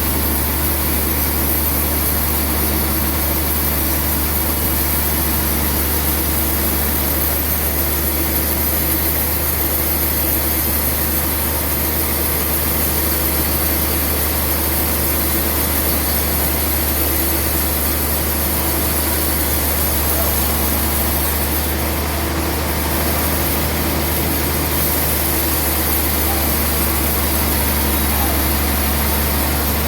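Sawmill machinery running steadily, a constant low engine hum with a high hiss and no change in load.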